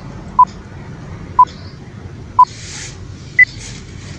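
Countdown timer sound effect beeping once a second: three short beeps, then a single higher-pitched beep about three and a half seconds in that marks the end of the count.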